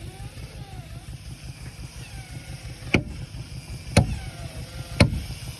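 Hammer blows striking wood, three sharp strikes about a second apart in the second half, over a steady low rumble.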